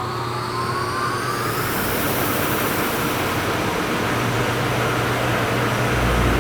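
Sanding heads of a Timesavers Puma three-head wet wide belt sander being switched on one after another: a rising whine as a head motor and its belt spin up, settling into a steady running noise, with a brief hiss about two seconds in and a short low rumble near the end.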